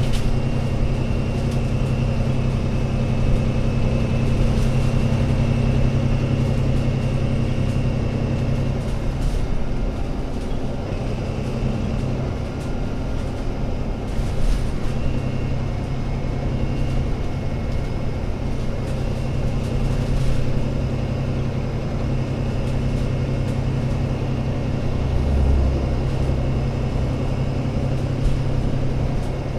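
Engine of an Alexander Dennis Enviro500 MMC Euro 6 double-decker bus running with a steady low drone, which eases off about nine seconds in, with a few faint knocks later on.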